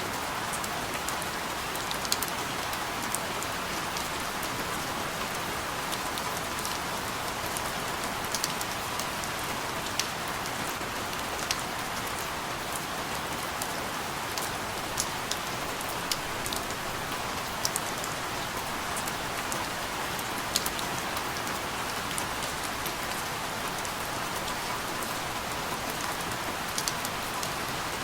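Steady rain falling, an even hiss with scattered sharper drips pattering on a surface.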